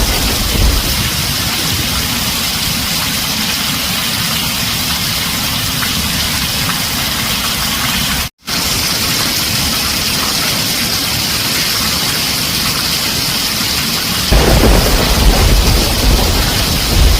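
Heavy rain drumming steadily on a tin roof, with thunder rumbling low at the start and again from about fourteen seconds in. The sound cuts out for an instant about eight seconds in.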